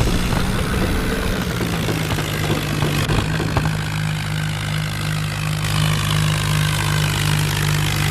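Tractor engine running, settling into a steady, evenly pulsing idle about halfway through.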